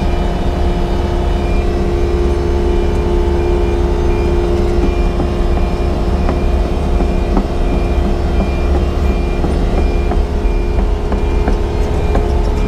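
Diesel engine of a Yanmar crawler excavator running steadily while digging, with a high alarm beep repeating at an even pace through it and a few short knocks.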